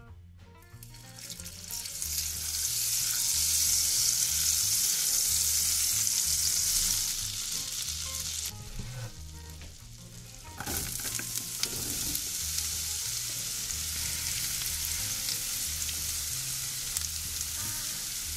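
Food sizzling as it fries in a hot pan, a steady hiss that breaks off for about two seconds midway and then resumes.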